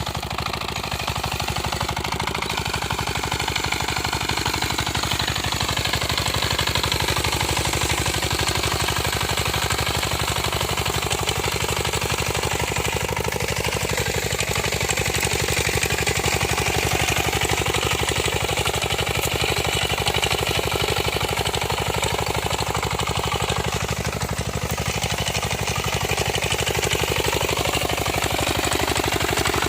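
Engine of a small homemade farm tractor running steadily, its pitch shifting slightly in the first few seconds.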